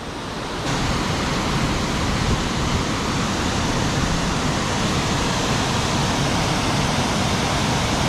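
Steady rushing of flowing creek water, becoming louder and fuller about a second in.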